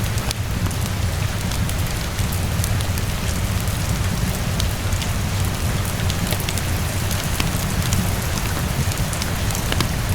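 Steady rainfall with a low rumble underneath, mixed with scattered sharp crackles and pops of a wood fire.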